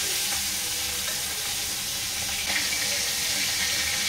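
Salt-and-turmeric-coated prawns frying in hot mustard oil in a kadai: a steady sizzle, with a light knock about two and a half seconds in.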